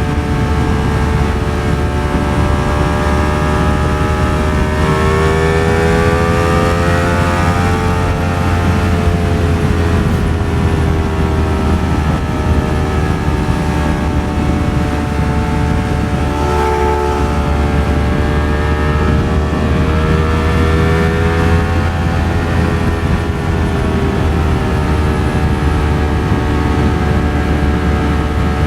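Ducati Streetfighter V4 S's V4 engine running under way at a fairly steady pace, its note rising and falling gently several times, heard from inside the rider's helmet over steady wind roar.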